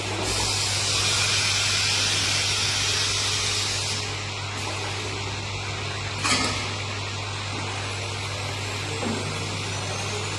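A woodworking machine running with a steady low electric hum and mechanical noise. A loud hissing rush, like a blast of air, runs for the first few seconds, and a single sharp knock comes about six seconds in.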